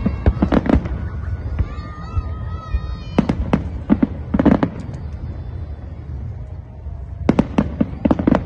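Fireworks going off in quick clusters of sharp cracks over a steady low rumble: a burst at the start, another about three to four seconds in, and a third near the end.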